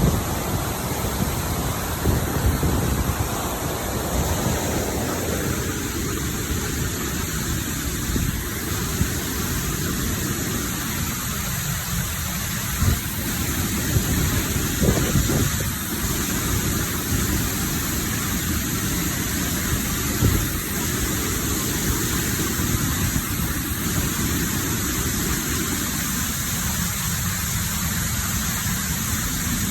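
Waterfall rushing steadily, with a low rumble underneath that swells and fades.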